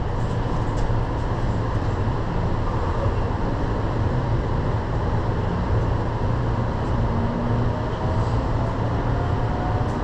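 Light-rail train running: a steady low rumble with faint whining tones coming and going in the second half.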